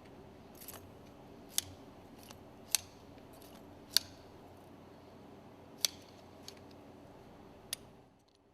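Pliers or wire cutters working steel locking wire on the piston screws: a series of about five sharp metallic clicks and snips, irregularly spaced one to two seconds apart, with a few fainter ticks between.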